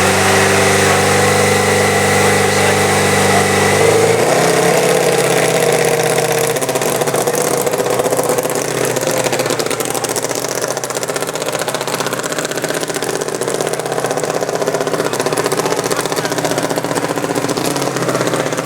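Motorcycle engine running steadily at fairly constant revs; its note shifts about four seconds in and then holds.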